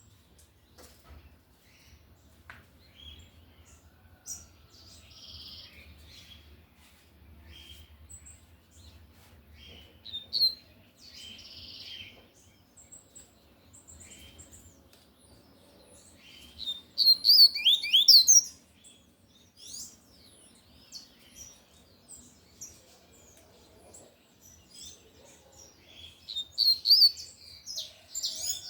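Double-collared seedeater (coleiro) singing its tui-tui song loudly: three strong bursts of quick, high, sweeping notes with softer chirps in between.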